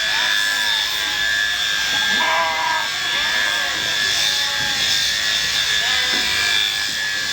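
Electric sheep shears running with a steady high whine, while short pitched calls, bleats or voices, come and go over it.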